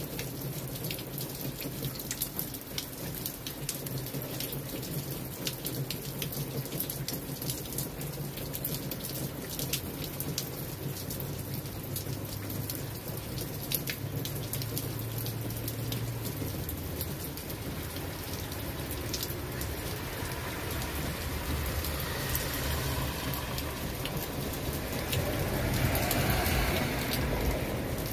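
Steady rain falling on wet brick paving, close drops pattering and ticking. Near the end a swelling hiss rises and fades as a car drives by on the wet street.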